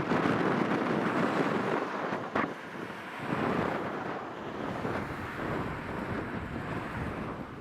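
Wind buffeting the microphone: an unsteady rushing noise that swells and eases.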